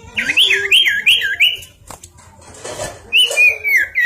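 Common iora singing: a quick run of about five whistled notes, each sweeping down in pitch, then after a short break a second phrase of notes sliding downward, with a sharp click between the two phrases.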